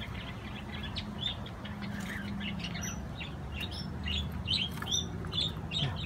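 Birds chirping in many quick, short, high notes that come thicker in the second half, over a steady low hum.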